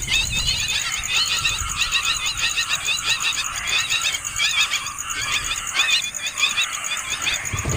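Several nestling birds begging for food: a dense, continuous chatter of quick, high, squeaky chirps overlapping one another, the calls of hungry chicks.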